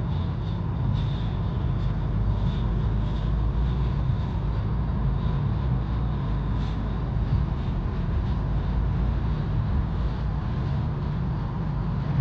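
A 2022 Mercedes-AMG being driven: a steady low rumble of engine and road noise, with no marked revving or change.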